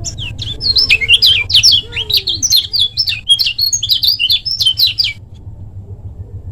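Lemon-bellied white-eye (kecial kuning) singing a fast, dense run of sharp high chirps and sweeping notes for about five seconds, then falling silent.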